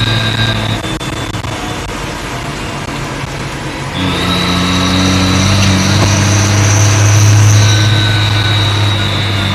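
New Holland T6030 tractor engine running with a high, steady turbocharger whistle. The engine and whistle drop back about a second in, then pick up again about four seconds in, with a second, higher whistle joining for a few seconds.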